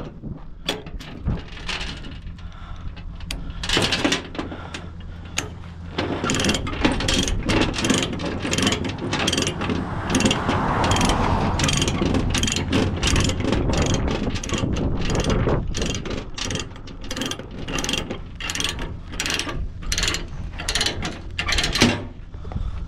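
Rapid metallic ratcheting and clatter, as of a load chain's ratchet binder being worked, over a steady low engine hum; the clicking thickens a few seconds in and runs on densely.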